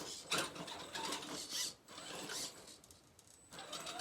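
A 1/10-scale electric RC rock crawler's motor and geared drivetrain whirring in short, irregular bursts of throttle as it works over the obstacle. It goes quieter for about a second near the end.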